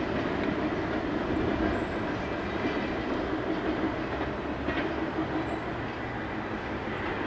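A train rolling past, with steady wheel-on-rail noise that slowly fades.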